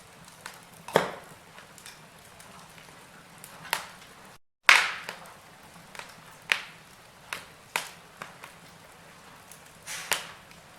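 Wood fire crackling in a fireplace: a faint hiss of burning with about a dozen sharp, irregular pops and snaps. The loudest snaps come about a second in and just after a brief moment where the sound cuts out entirely.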